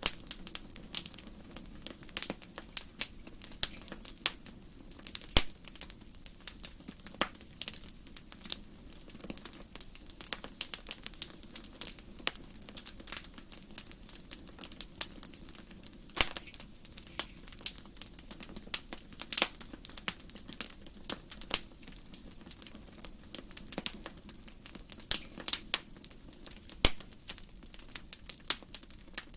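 Wood fire burning in a fireplace: dense, irregular crackling and popping, with a few louder snaps, over a low steady rumble of the flames.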